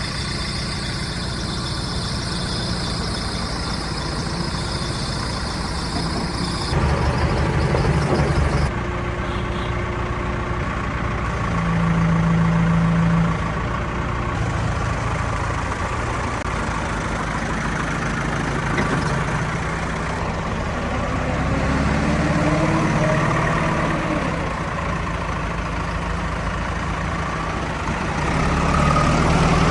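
Heavy diesel engine running steadily, revving up several times for a second or two as it takes load.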